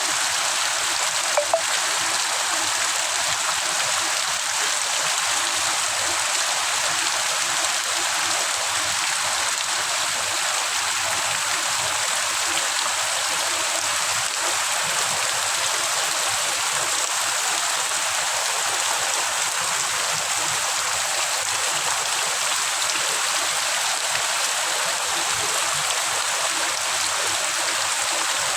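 Heavy rain falling, a steady even hiss with no let-up, with one brief click about a second and a half in.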